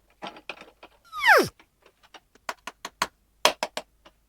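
Small plastic toy pieces clicking and tapping as they are handled and set down, in a quick, uneven series of sharp ticks. About a second in comes one loud whistle-like squeal that falls steeply in pitch.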